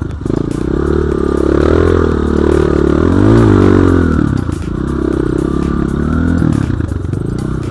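Dirt bike engine revving up and down over and over as the throttle is worked off-road, with clattering over it.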